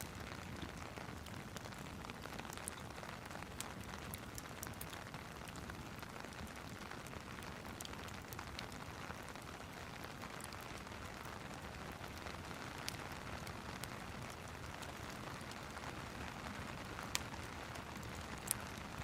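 Steady rain hiss mixed with a crackling wood fire: scattered small sharp pops throughout, with two louder pops near the end.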